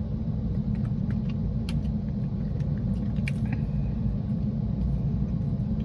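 Steady low rumble inside a parked car's cabin, with a few faint clicks and taps scattered through it.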